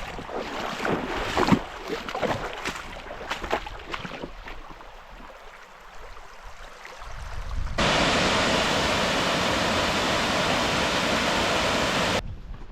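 Irregular crackles and knocks, then a loud, steady rush of water that starts abruptly and cuts off about four seconds later.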